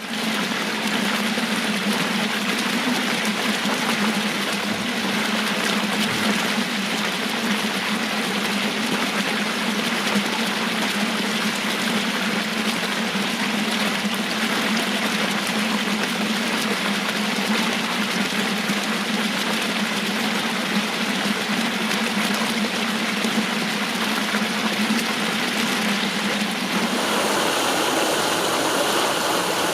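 Water cascading steadily down stepped garden channels, with a steady low hum underneath. Near the end the hum stops and the water rush becomes brighter.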